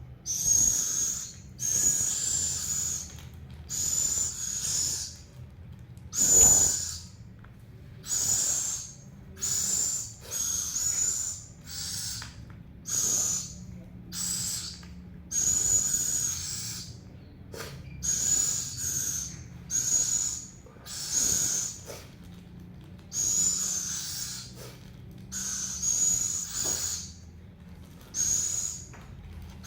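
A hungry owl making repeated hissing begging calls, about one short rasping hiss a second.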